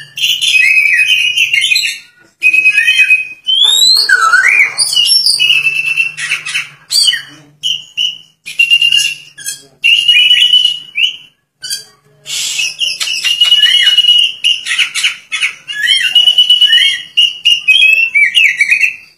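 Oriental magpie-robin (kacer) singing hard: a loud, varied song of clear whistles, quick gliding notes and harsh squawky calls, delivered in long phrases broken by brief pauses.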